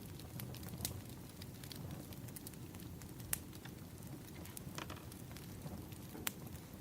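Burning firewood crackling: a steady low rumble of flames with scattered sharp pops, the loudest about three seconds in and again near the end.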